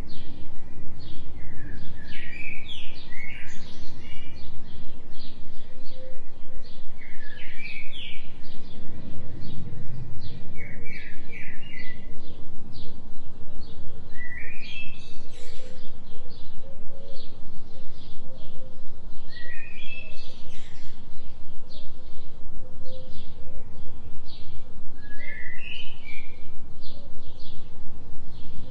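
Forest birdsong: many small birds chirping, with short rising call phrases repeated every few seconds, over a steady low drone from the binaural-beat tone bed.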